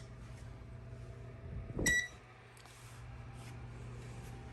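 A single short electronic beep about two seconds in, from an RV appliance's control panel as the power switch-over brings it on, just after a soft knock. A steady low electrical hum runs underneath.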